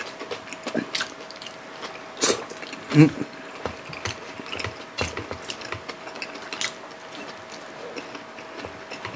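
Close-up eating sounds: two people chewing fried milkfish and rice eaten by hand, with irregular wet mouth clicks and smacks, loudest a little over two seconds in and again at about three seconds.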